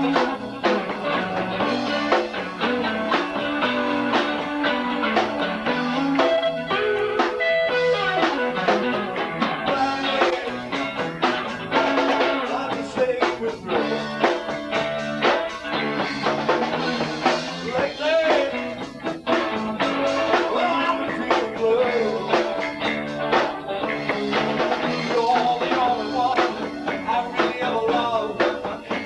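Live rock trio playing a song: guitar, bass guitar and drum kit.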